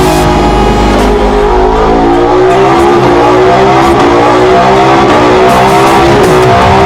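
Vehicle engine revving, its pitch rising and falling smoothly over a couple of seconds at a time.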